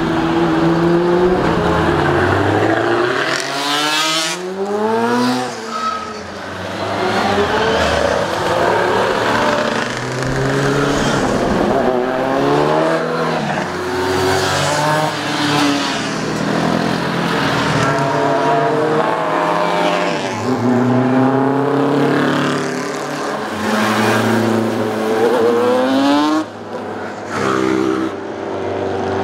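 Several racing motorcycle engines at full race pace, overlapping, their pitch climbing and dropping again and again as the riders accelerate, shift and back off. The sound dips briefly near the end before the engines pick up again.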